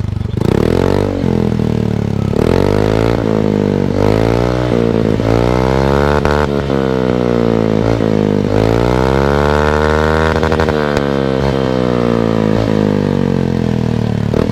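Yamaha Mio i 125 scooter's single-cylinder engine breathing through a Villain GP1 aftermarket muffler, revved up and let fall back several times, with two long climbs to high revs. It is loud enough that the listener afterwards calls himself deafened.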